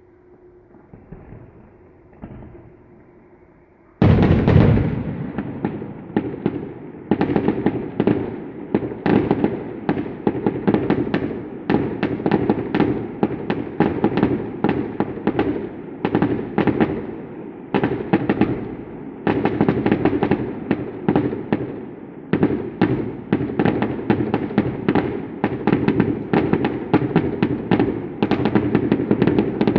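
Aerial fireworks display: after a few seconds of faint low hum, a dense barrage of shell bursts and crackles starts suddenly about four seconds in and keeps going without a break.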